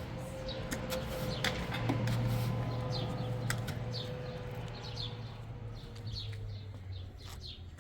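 Small birds chirping, many short falling chirps a few times a second, over a low steady hum and a few sharp clicks.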